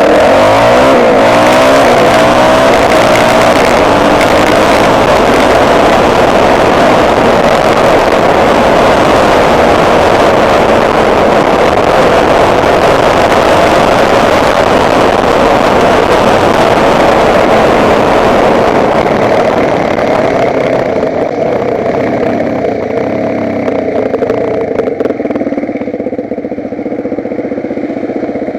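Motocross bike engine accelerating, its pitch climbing in the first couple of seconds, then running hard at high revs. About twenty seconds in it eases off to a lower, quieter run.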